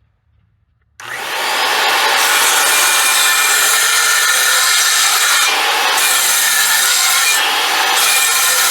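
Table saw switched on about a second in, spinning up quickly and then running loud and steady while its blade cuts into wood, with a faint steady motor whine under the cutting noise.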